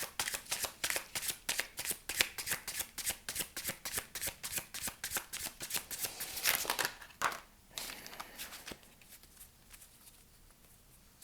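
A deck of oracle cards being shuffled by hand, a rapid run of riffling card flicks that stops about seven seconds in, followed by a couple of softer card slides.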